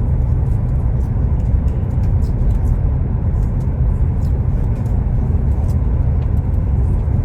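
Passenger train running at speed, heard from inside the carriage: a steady low rumble that does not change.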